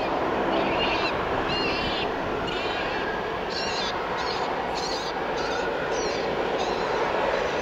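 Short high chirps from small birds, repeating about once or twice a second, over a steady rushing noise.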